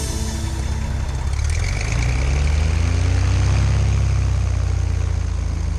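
Cessna 170's piston engine and propeller running at low power, then speeding up about a second and a half in, its note rising and growing louder before holding steady at the higher speed.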